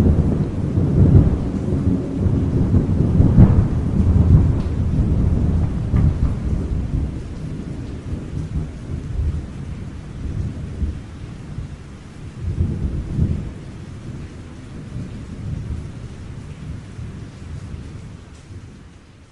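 Thunder rumbling in a long, low rolling peal that starts loud and slowly dies away, with a smaller rumble swelling about two-thirds of the way through, over steady rain. It fades out completely at the end.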